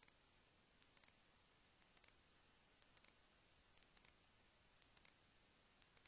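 Near silence with faint, sharp clicks in small clusters of two or three, about once a second.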